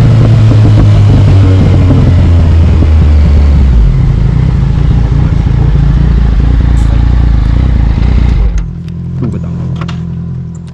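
Yamaha MT-09 three-cylinder engine running through an Akrapovic carbon exhaust, its pitch stepping down about four seconds in. Near the end it turns much quieter, with a few light clicks, and fades out.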